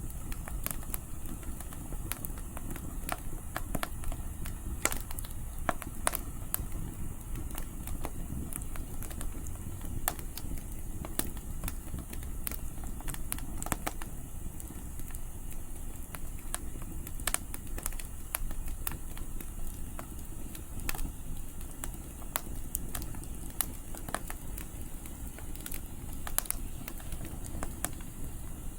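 Wood campfire crackling, with frequent irregular snaps and pops over a steady low rumble of wind.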